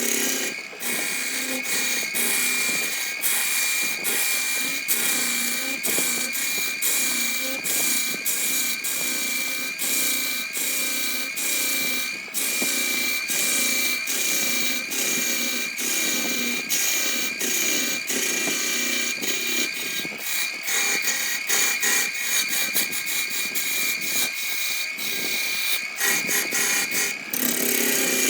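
Electric power tool running steadily with a high, unchanging whine while it cuts into wood, with irregular scraping and chattering from the cut.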